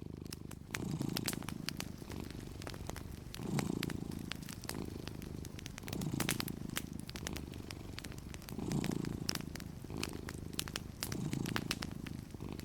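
Domestic cat purring, the rumble swelling and easing with each breath about every two and a half seconds. Wood fire crackling over it in frequent sharp pops.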